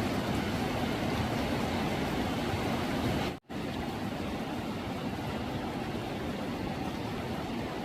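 Fast-flowing floodwater rushing: a steady noise. It cuts out for a split second about three and a half seconds in, then carries on slightly quieter.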